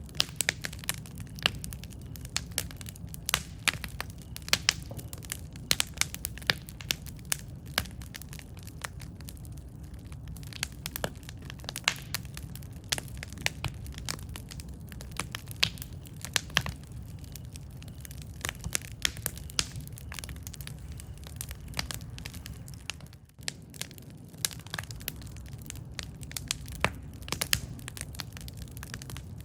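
Wood fire crackling: frequent sharp pops and snaps, several a second, over a steady low rumble.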